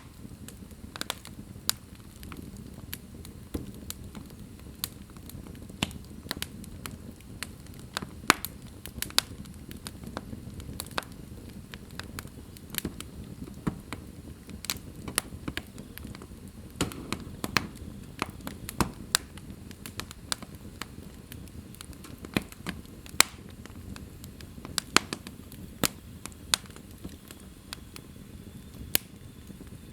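Wood fire burning in a fireplace: a low steady rumble of flames with frequent sharp, irregular crackles and pops from the logs.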